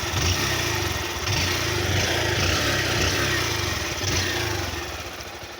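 Honda CG 160 Fan's single-cylinder 160 cc engine running at idle, with an even firing rhythm and no heavy valve tapping, quiet enough that the owner takes its valve noise as normal. It runs louder for about four seconds, then eases off somewhat.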